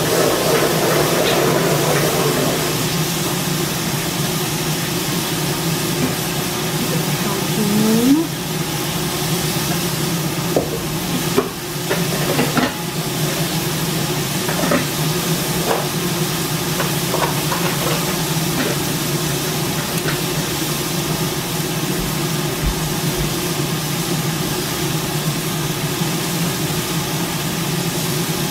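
Sea scallops and scallion pieces sizzling steadily in oil in a hot wok, over a steady low hum. A few light clicks and taps come through in the middle.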